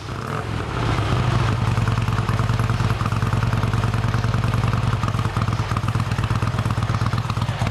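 Motorcycle engine running steadily, its low, even exhaust note fading up over the first second.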